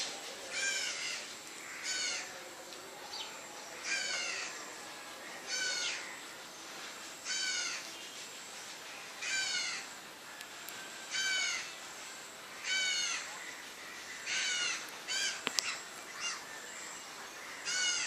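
A bird calling over and over, about ten short wavering calls, one every one and a half to two seconds.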